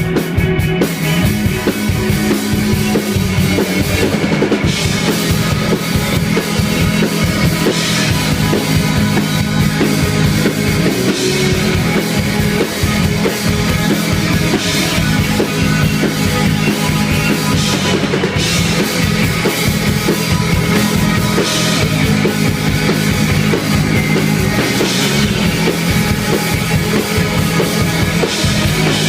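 Rock band playing live, loud and dense, with the drum kit's bass drum and snare keeping a steady beat. A cymbal crashes about every three and a half seconds.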